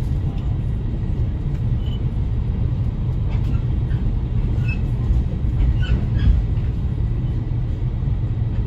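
Steady low rumble of a JR Kyushu limited express train under way, heard from inside the passenger car, with faint short high squeaks here and there.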